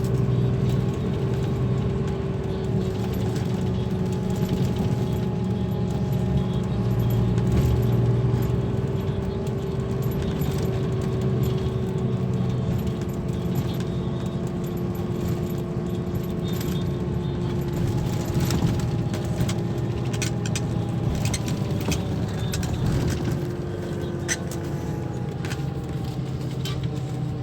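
Scania K340 coach engine running steadily under way, its pitch drifting slowly lower, with rattling and clicking of loose fittings that grows busier in the second half.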